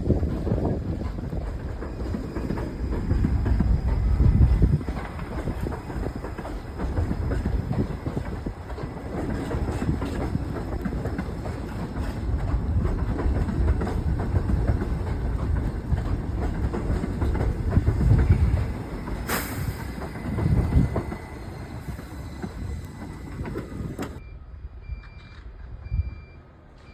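New York City subway train running on the tracks: a heavy rumble with wheel clatter, swelling and easing, with one sharp click well into it. Near the end the sound drops away suddenly and a few faint short high beeps are heard.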